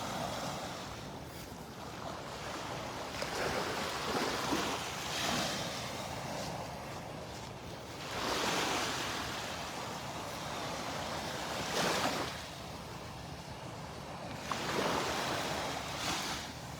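Small Gulf of Mexico waves breaking and washing up the sand at the shoreline, a hissing surge that swells and fades every few seconds as the tide comes in.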